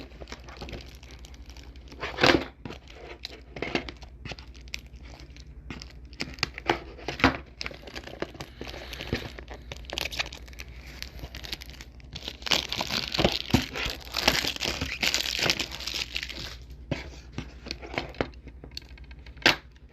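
Plastic shrink-wrap being torn and peeled off a DVD case, with scattered clicks and crackles and a burst of crinkling about two-thirds of the way through as the wrap is pulled away and crumpled.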